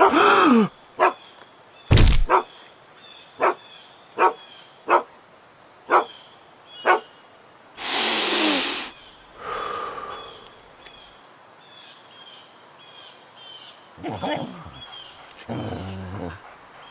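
Dog sound effects: a falling yelp or bark at the start, then a string of sharp snaps or knocks about once a second, a loud noisy crash about eight seconds in, and a rough low dog-like sound near the end.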